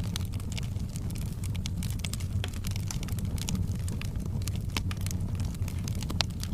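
Wood fire in a fireplace crackling: many small, irregular sharp pops and snaps over a steady low rumble of the burning fire.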